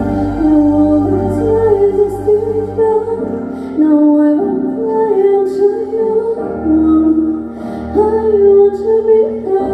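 A young girl singing over musical accompaniment, holding long notes.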